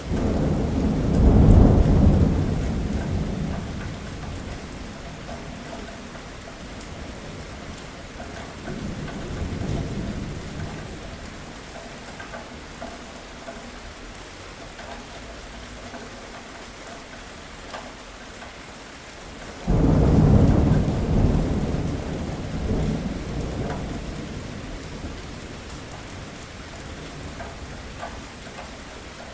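Steady rain with thunder rolling three times: a loud roll right at the start, a fainter one about nine seconds in, and a second loud roll that comes in suddenly about twenty seconds in. Each rumble dies away over a few seconds back to the rain.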